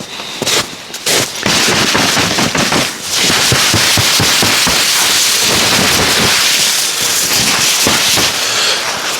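Wood campfire crackling and popping up close, a dense stream of sharp snaps over a hiss that thickens about a second and a half in.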